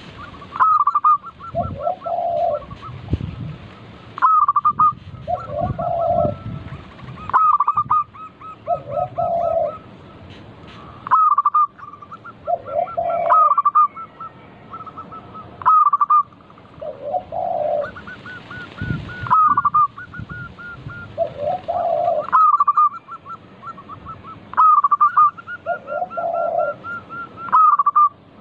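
Zebra dove (perkutut) singing its repeated song phrase about every three seconds: a quick run of higher notes, then a lower coo.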